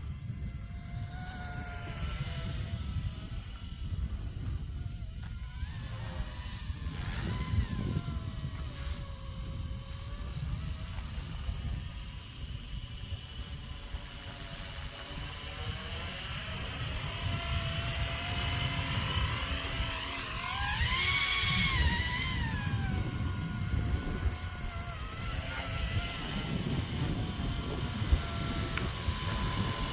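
Blade 230 S electric RC helicopter flying: the whine of its motor and rotor blades rises and falls in pitch as the throttle changes, loudest in a surge about twenty seconds in. Wind rumbles on the microphone underneath.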